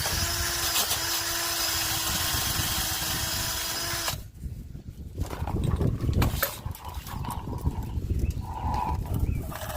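An electric power tool, used to clean rust off an exhaust pipe before welding, runs steadily at a constant pitch and is switched off about four seconds in. Quieter knocking and handling noise follows.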